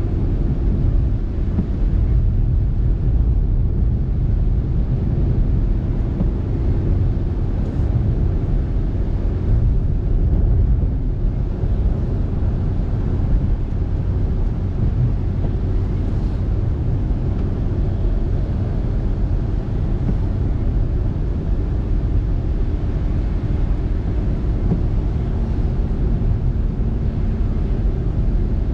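Steady low road rumble from a moving car: tyre noise and engine drone heard from inside the car, with a faint engine hum.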